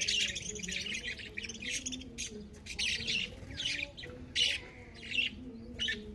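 Many birds chirping, short calls overlapping one after another, with a faint low wavering tone underneath.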